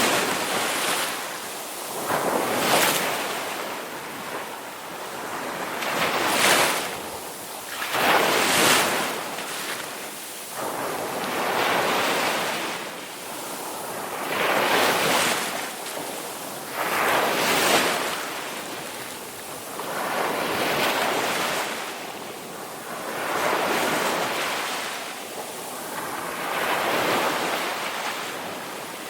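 Ocean waves breaking and washing up on a shore. Each wave swells and fades over a second or two, about a dozen in a row.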